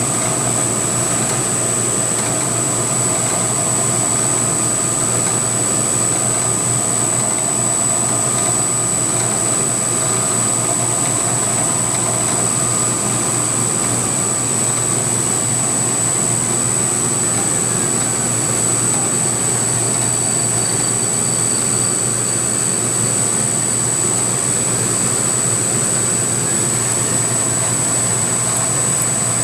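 CNC milling machine's belt-drive spindle running steadily while a high-speed steel end mill takes a slow finishing pass along the side of the part, with a constant high-pitched whine over the machine hum.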